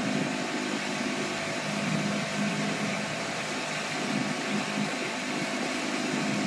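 Steady low motor hum under an even rushing hiss, without any sudden events.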